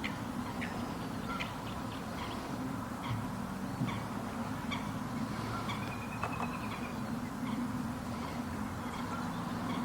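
Wild marsh birds calling: scattered short chirps and a brief trill about six seconds in, over a steady low hum.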